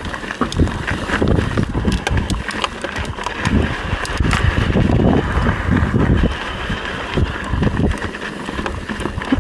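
Mountain bike ridden over rocky trail: an uneven rumble with many sharp rattling clicks from the bike over the rock.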